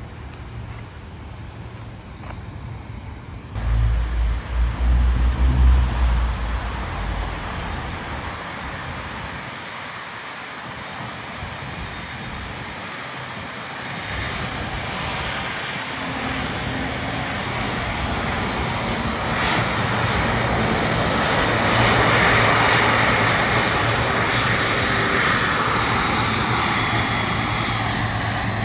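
Jet engines of a Boeing 747-400 freighter taxiing: a rushing engine noise with a thin high whine that swells as the aircraft draws nearer, loudest about three quarters of the way through. A heavy low rumble comes briefly about four seconds in.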